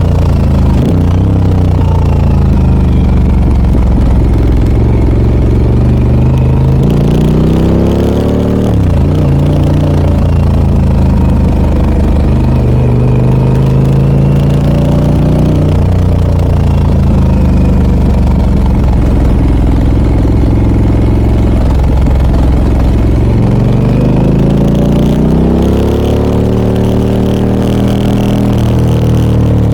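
Harley-Davidson Pan America 1250 Special's V-twin engine running through a Scorpion aftermarket exhaust while riding. The engine note climbs under acceleration and drops sharply three times, about 9, 16 and 23 seconds in.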